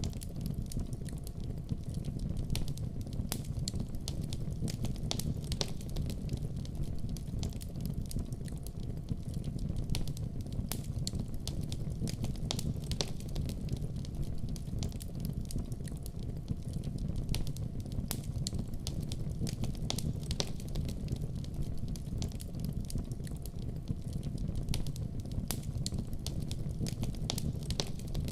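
Wood fire burning steadily in a fireplace, with a low rumble of the flames and frequent small irregular crackles and pops.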